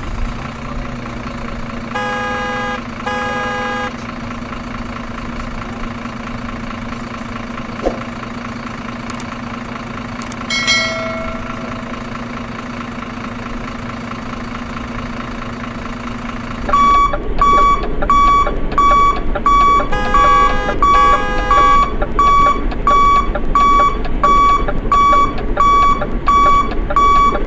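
A steady electronic hum with a couple of short beeps, then, about two-thirds of the way in, a loud electronic beep starts repeating rapidly and evenly, roughly one and a half beeps a second, like an alarm.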